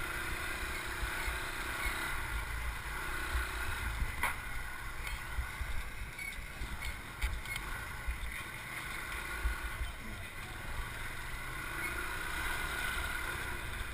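Motorbike running while riding, with wind buffeting the microphone as a gusty low rumble; a single sharp click about four seconds in.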